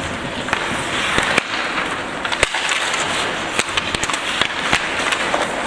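Ice hockey play in a rink: a steady hiss of skates and rink noise with several sharp clacks of sticks on the puck.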